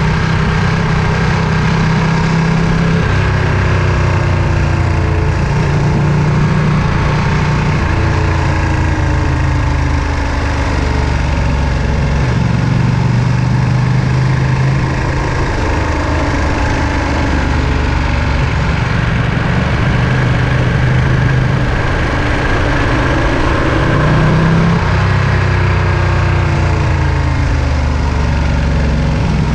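Ducati Panigale V2's 955 cc Superquadro V-twin running under way during a ride, heard from the rider's position. The engine note holds at moderate revs and steps up and down in pitch several times.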